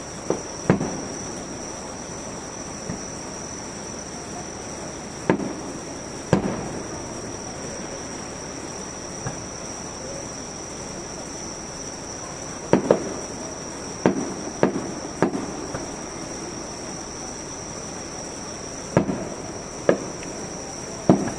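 Fireworks shells bursting in irregular bangs, about a dozen, some in quick pairs and clusters, each with a short echoing tail. A steady high insect trill runs underneath.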